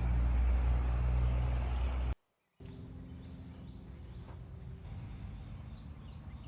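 A steady low rumble that cuts off about two seconds in. After a brief gap comes a quieter outdoor background, with birds starting to chirp near the end.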